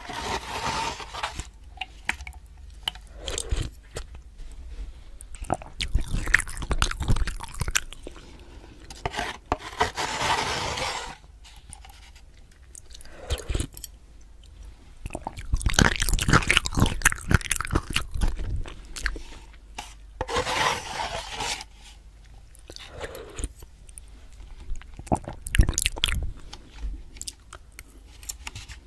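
Eating Maruchan instant noodles: chewing and mouth sounds coming in several separate bursts a few seconds apart, with quieter gaps between.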